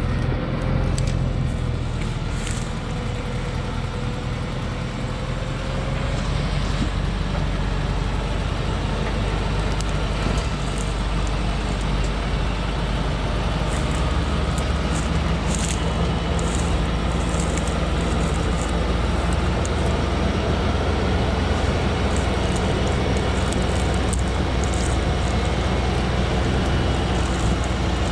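Loaded timber truck's engine running steadily with a low drone and a faint whine, with occasional light ticks and rattles.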